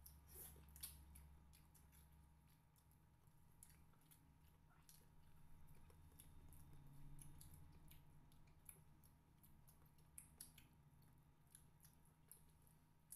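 Near-silent eating sounds: faint chewing and small scattered clicks of mouths and fingers working rice and food by hand, over a low steady hum.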